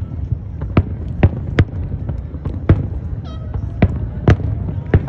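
Fireworks bursting overhead: a string of sharp bangs, about seven in five seconds, over a steady low rumble.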